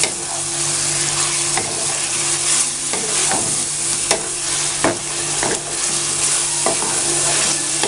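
Chicken in an onion-tomato masala sizzling in oil in a nonstick wok while a spatula stirs and fries it. The spatula scrapes and knocks against the pan at irregular intervals, about once a second.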